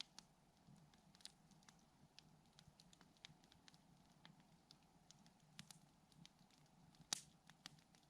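Campfire wood crackling softly, with scattered faint pops and snaps and one louder pop about seven seconds in.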